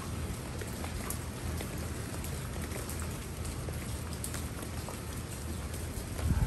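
Steady rain falling on broad leaves and the forest floor, an even hiss dotted with the ticks of single drops. A short low thump comes near the end.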